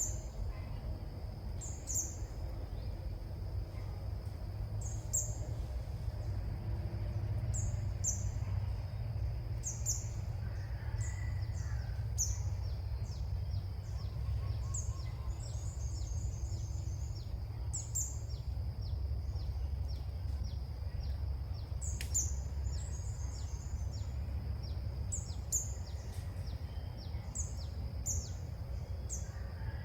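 Birds calling outdoors: short, high chirps repeated about once a second, sometimes in quick runs. Under them runs a steady thin insect buzz and a low rumble.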